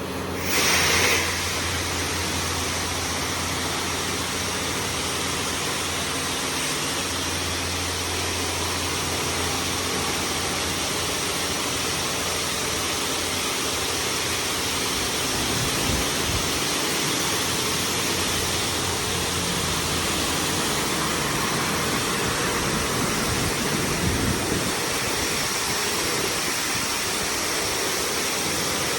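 Touchless automatic car wash (LaserWash 360+) spraying water jets onto a car: a loud, steady hiss that starts suddenly, loudest for the first second, with a low hum underneath.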